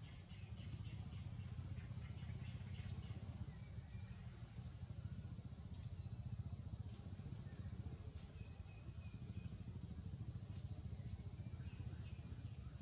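Low outdoor ambience: a steady low rumble under a steady high hiss, with a few faint short chirps.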